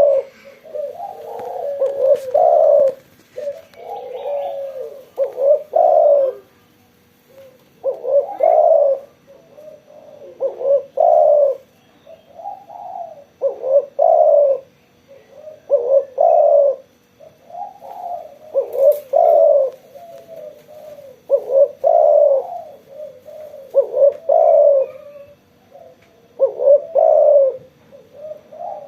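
Spotted dove (tekukur) cooing in full song, repeating its phrase of several coos about every two to three seconds.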